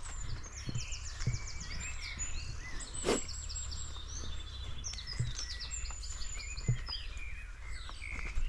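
Small forest birds calling and twittering in quick, high series, over the slow, dull footsteps of someone walking on the forest floor. One sharp crack about three seconds in.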